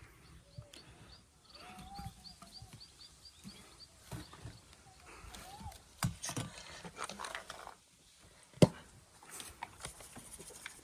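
Leaves and bean pods being handled and packed into a clay pot: rustling with a few sharp knocks, the loudest about two-thirds of the way through. A bird chirps in a quick even series, about three a second, over the first half.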